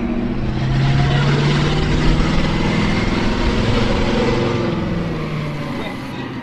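A large vehicle's engine running with its pitch shifting, growing louder to a peak in the middle and fading away near the end.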